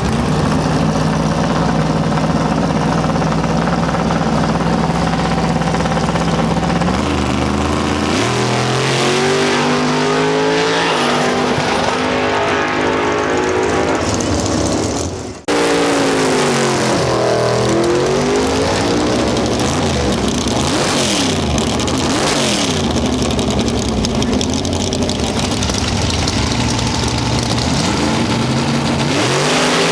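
Race car engines: a steady engine note, then engines rising in pitch as cars accelerate away. After a sudden cut, engine notes sweep up and then fall as cars run past.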